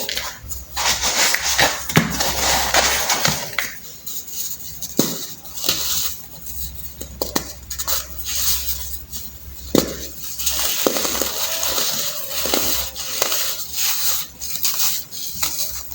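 Clumps of dried baking soda being crushed and crumbled, an uneven run of crunches with sharp cracks between them.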